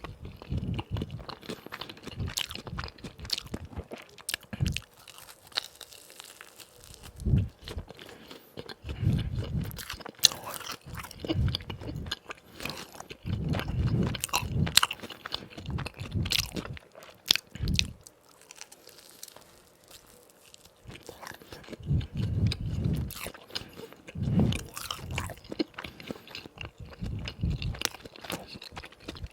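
Close-miked biting and chewing of crispy fried donuts: sharp crackling crunches over low, wet chewing, with a quieter pause about two-thirds of the way through.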